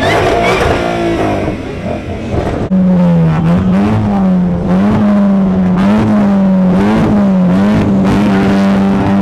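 A car engine revving hard, its pitch sweeping up and down over the first few seconds. About three seconds in it jumps louder and is held at high, nearly steady revs, with small rises and dips.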